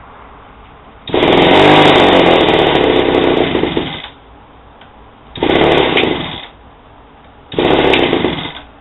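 A two-stroke chainsaw engine driving a propeller on a homemade bike, revved three times by hand on the throttle cable: one long rev of about three seconds, then two shorter ones, dropping back to a low idle between them. The owner reckons it is running a bit lean from an off fuel-oil mix, so it doesn't run great.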